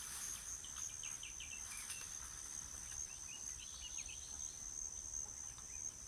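A steady high-pitched insect trill, like a cricket's, with two brief series of faint bird chirps: one about half a second in and another around three and a half seconds in.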